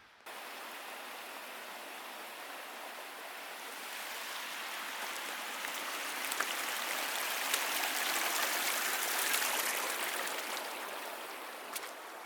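Rushing water of a mountain stream, a steady even hiss that grows louder toward the middle and eases off near the end.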